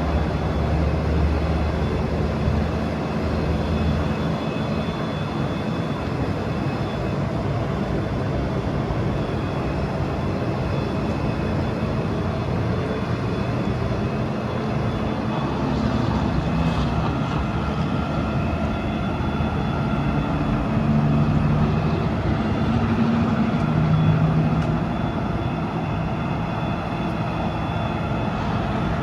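Diesel truck engine, the Cummins B6.7 turbo diesel, running steadily with a low hum that rises slightly and wavers around twenty seconds in.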